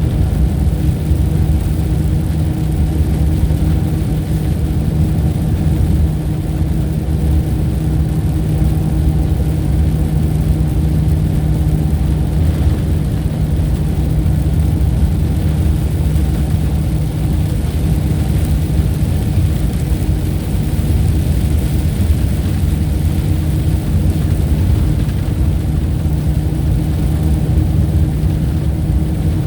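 A steady, loud, low engine-like drone with a constant hum, unchanging throughout.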